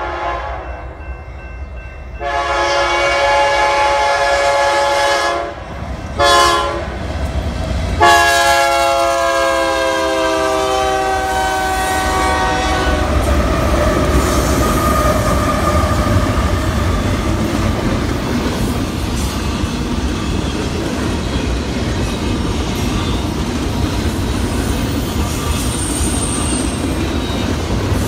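Freight locomotive horn sounding the grade-crossing pattern: a long blast, a short one, then a final long blast whose pitch drops as the lead BNSF GE C44-9W diesel passes. After that comes the steady rumble and clickety-clack of double-stacked container cars rolling by.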